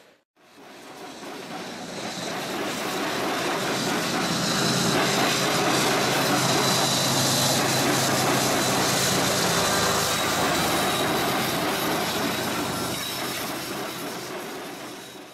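Freight train passing: the steel wheels of its cars rolling on the rails, with a thin steady squeal, swelling to a peak near the middle and fading toward the end. A low engine hum from a mid-train CSX diesel locomotive joins in about four seconds in and fades a few seconds later as it goes by.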